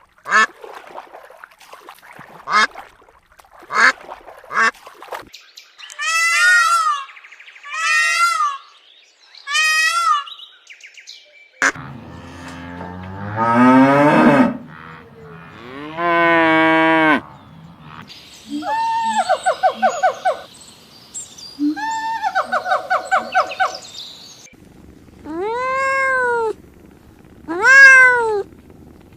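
A run of different animal calls, one kind after another: short sharp calls, then three wavering calls, two long calls falling in pitch, rapidly trembling calls, and arched calls near the end.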